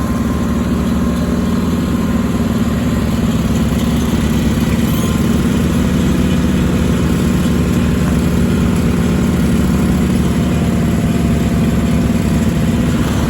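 Sears Suburban SS16 garden tractor engine running steadily, getting a little louder about four seconds in.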